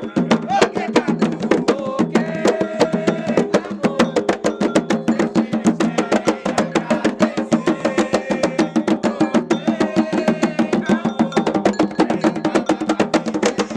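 Ritual drumming with fast, steady strikes, several per second, and voices singing a melody over the drums.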